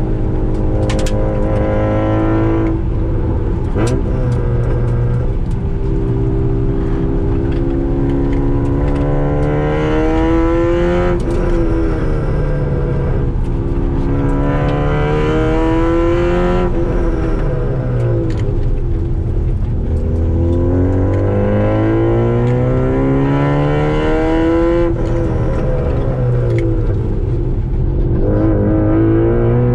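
Car engine heard from inside the cabin while driven hard on a circuit, its pitch climbing as it revs up and then dropping off sharply, about four times over, with steady road and tyre noise underneath.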